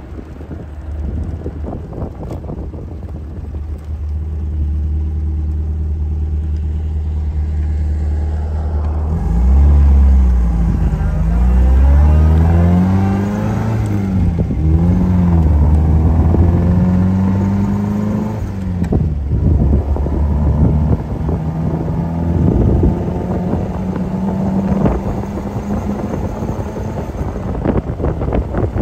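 MG TD's four-cylinder engine running steadily, then pulling hard, its pitch rising and dropping several times as it is shifted up through the gears, before settling into a steady cruise.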